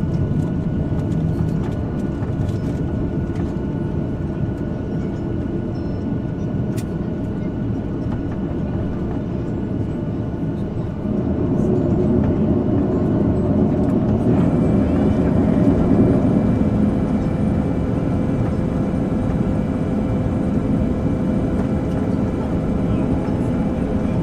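Cabin noise in a Boeing 737-800 on approach: the steady roar of its CFM56 jet engines and the airflow, with faint steady tones. It grows louder about 11 seconds in, and higher tones join about three seconds later.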